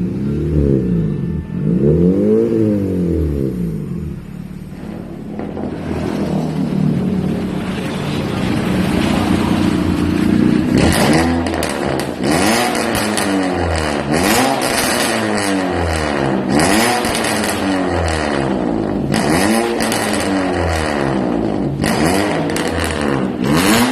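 Car engine breathing through an aftermarket WRC Racing exhaust, revved repeatedly: a few quick blips, then a longer rev held higher for several seconds, then a long run of sharp throttle blips a little over a second apart, each rising and falling in pitch with a raspy edge.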